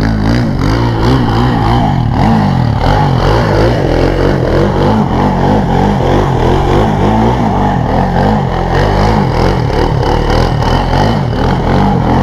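Small off-road vehicle engine revving up and down again and again with throttle blips, loud and close, as the rider practises wheelies.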